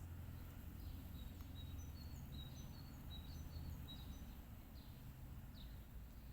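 Small birds calling: many short, high whistled notes and a few brief falling chirps, over a low steady rumble.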